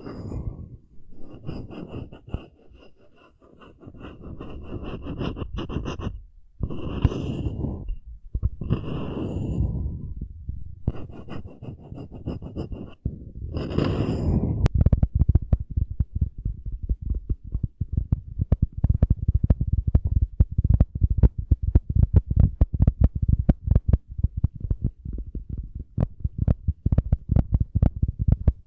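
Scratching on a wooden cup coaster. It starts with slower, uneven rubbing strokes, and about halfway through turns into fast, dense scratching, many small strokes a second.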